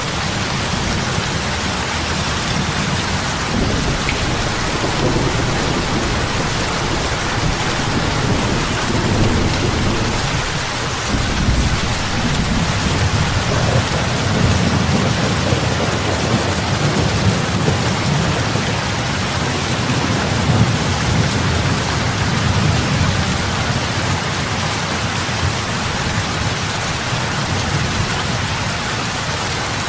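Heavy rain falling on lake water: a steady hiss of drops with deep splashes of big drops. A low rumbling layer comes and goes underneath.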